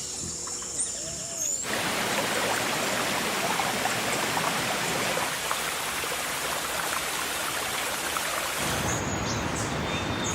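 Steady hiss of water with fine crackle, starting abruptly about one and a half seconds in after a few faint chirps; about eight and a half seconds in its deepest part drops away.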